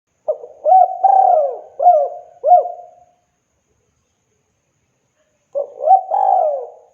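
Spotted dove (tekukur) cooing: one phrase of about five rolling coos, then a pause of about two seconds before the next phrase begins near the end.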